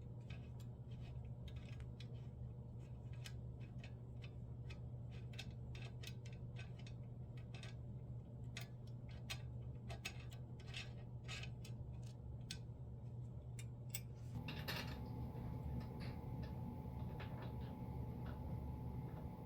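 Irregular small clicks and ticks of hand tools and small metal parts being handled and fastened, over a steady low hum. About fifteen seconds in comes a short rustle, and the background hum grows louder with a faint steady tone in it.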